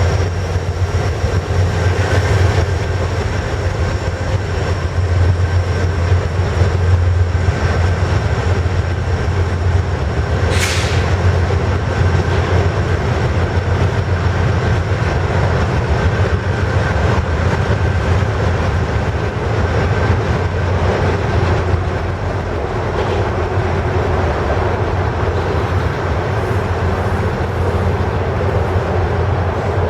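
Norfolk Southern grain train rolling past, with a loud, steady rumble of wheels on rail. About ten seconds in there is a brief high-pitched screech.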